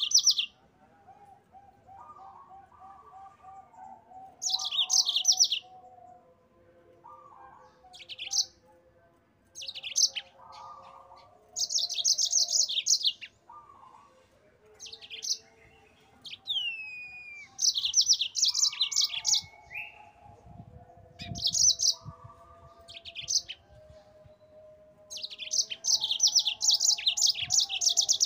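Yellow-fronted canary (Mozambique canary) in full, rolling song: repeated bursts of rapid, high trills, each a second or two long with short pauses between. A fainter, lower warbling carries on underneath.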